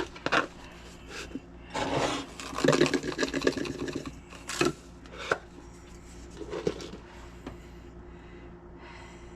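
Kitchen handling sounds: a few sharp clicks and knocks of utensils and containers, with a stretch of scraping and rubbing from about two to four seconds in.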